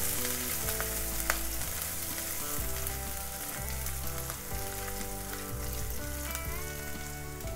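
Cumin seeds, ginger and green chillies sizzling in hot oil in a nonstick kadai, stirred with a silicone spatula; the sizzle slowly eases off, with one sharp tap a little over a second in. Soft background music with changing notes plays underneath.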